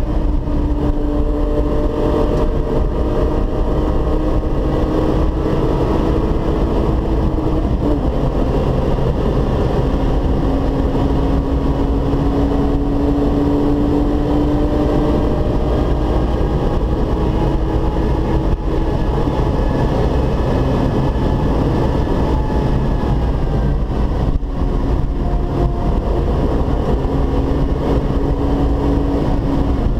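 Volkswagen Golf 3's VR6 six-cylinder engine pulling hard at high speed, with heavy wind and tyre noise underneath. The engine note drops near the end as the car slows.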